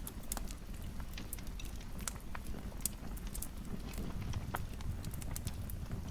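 Fire crackling in a fireplace: irregular sharp pops and snaps, several a second, over a low steady rumble of the flames.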